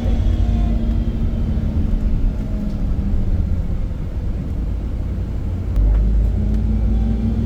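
Iveco Crossway LE Line 14.5 m bus engine and drivetrain running under way as a steady low rumble. A humming tone fades out about three seconds in and comes back about six seconds in, where the rumble also gets louder.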